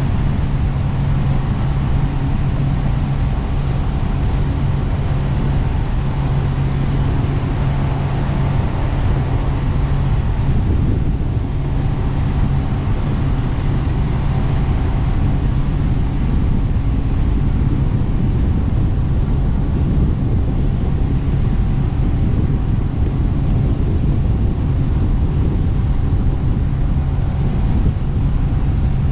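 Jet boat engine running steadily under way, a constant low hum over an even rush of noise.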